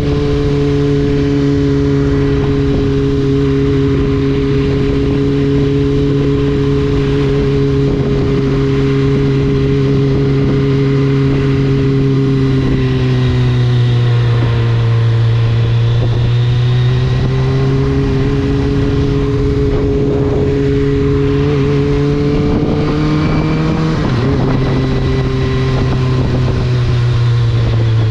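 Kawasaki Ninja ZX-25R's 250 cc inline-four engine with an Akrapovič exhaust, running at a fairly steady engine speed while ridden. The note dips and climbs back about halfway through and changes again near the end.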